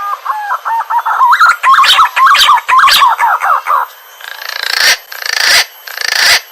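Green pigeon (punai) calling: a run of whistled notes that wobble up and down in pitch, followed by several harsh, rasping bursts in the last few seconds.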